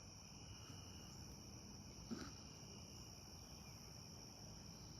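A faint, steady chorus of night crickets, a continuous high-pitched trill, with one brief faint sound about two seconds in.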